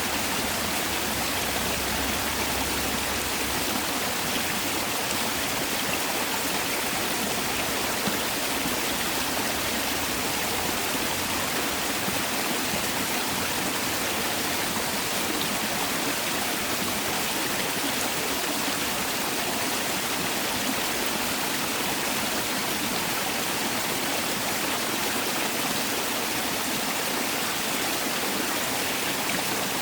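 Mountain valley stream rushing steadily over rocks, a continuous even splashing with no pauses.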